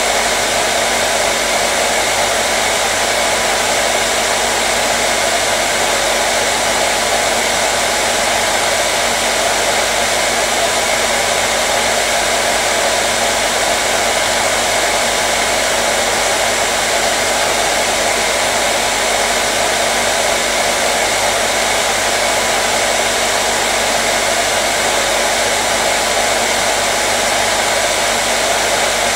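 Hair dryer running steadily: a constant, even rush of air with a low motor hum underneath, unchanging throughout, used as white noise to soothe colicky babies.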